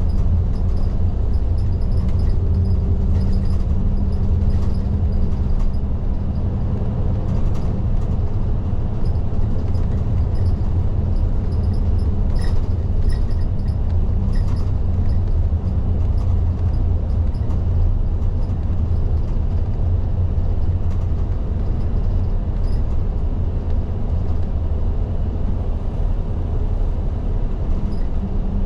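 Diesel engine and road noise of a Nishitetsu city bus (type LDG-KV234Q3), heard inside the cabin at the front: a steady low drone while the bus is driving.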